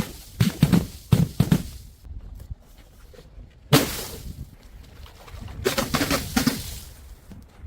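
Glass bottles knocking on steps and smashing: a quick run of sharp knocks in the first second and a half, one loud crash with a ringing tail a little under four seconds in, and a cluster of crashes about six seconds in.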